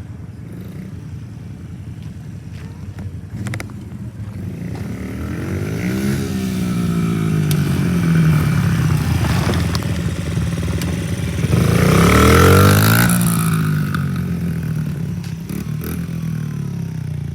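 Small dirt bike engine running and revving, its pitch climbing and falling as the bike rides by; it is loudest about twelve seconds in, then fades.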